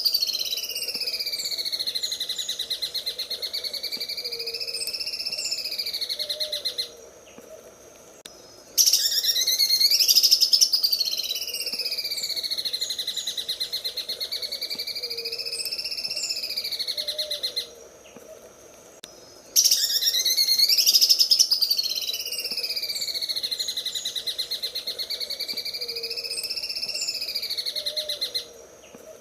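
Cucak ijo (greater green leafbird) singing in its sewing-machine style, a very fast rattling trill that sweeps down and back up in pitch. It comes as a repeating loop of bursts of about eight seconds, each followed by a pause of about two seconds.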